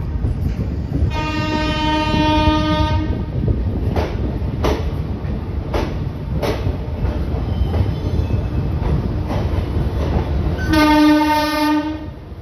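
Moving train rumbling, with two horn blasts: one about a second in lasting around two seconds, and a louder, shorter one near the end. In between, the wheels clack over rail joints in pairs.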